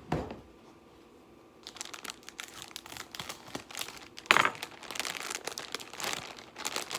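Plastic wrapper of a frozen microwave burrito crinkling and tearing as it is opened, starting after a short pause, with one louder rip a little past the middle.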